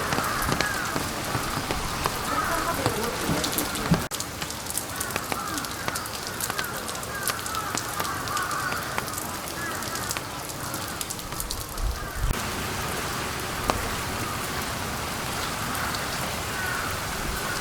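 Steady rain falling, with the sharp patter of individual drops striking nearby surfaces.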